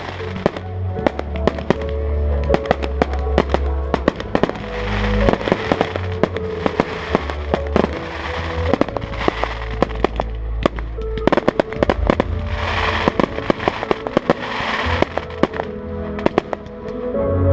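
Fireworks display: rapid bangs and crackling of bursting shells over a music soundtrack with sustained bass notes.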